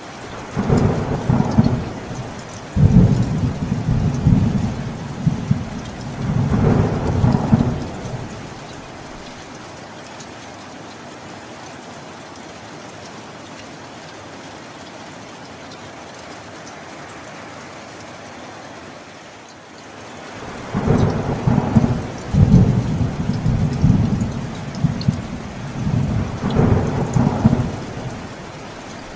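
Steady rain with two long rolls of thunder, each lasting about seven seconds and coming in several waves: one right at the start, the other beginning about twenty seconds in.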